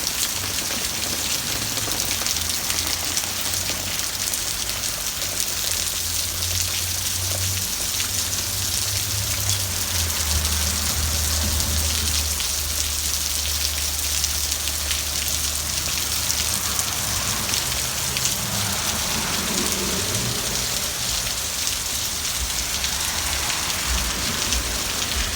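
Hard rain pouring down, a dense, steady hiss of drops hitting the ground, with a low rumble underneath that shifts in pitch now and then.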